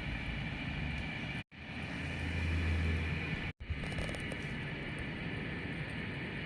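Steady background hum and hiss with a low rumble, cut to total silence for a moment twice, about a second and a half in and again about three and a half seconds in.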